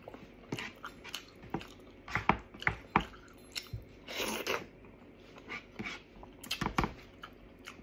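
Close-miked eating sounds: wet chewing and lip smacks as meat is eaten off the bone by hand, with a longer sucking sound about four seconds in.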